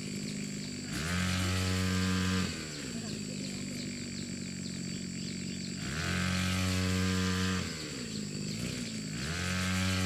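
A small engine revving up to a steady high speed, holding, then dropping back to a low run, three times about four seconds apart.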